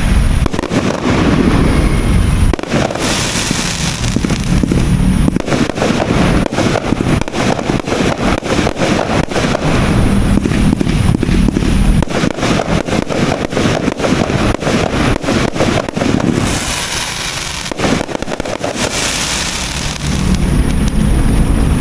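A 200-shot, 1-inch fireworks cake going off in a rapid, unbroken run of sharp bangs, many per second, that is densest in the middle.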